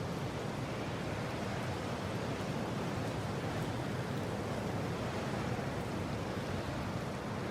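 Steady rushing wind, an even noise with no gusts standing out.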